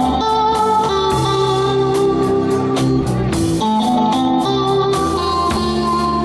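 Live rock 'n' roll band playing an instrumental passage: guitar lines over bass notes and a steady drum beat, no singing.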